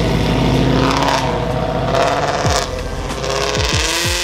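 Car engine running with its pitch rising and falling as it is revved.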